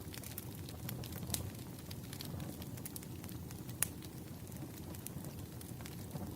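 Fireplace crackling: irregular sharp pops and snaps, one louder pop near the end, over a steady low rumble of burning wood.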